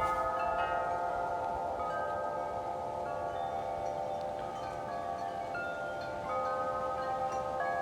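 Several wind chimes ringing in gusty wind: many overlapping, long-sustained tones with fresh strikes throughout, swelling a little louder about six seconds in.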